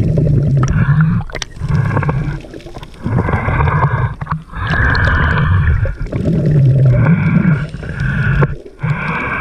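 Scuba diver breathing through a regulator underwater: repeated surges of bubbling, gurgling exhaust, each lasting a second or so with short pauses between them, and a few sharp clicks.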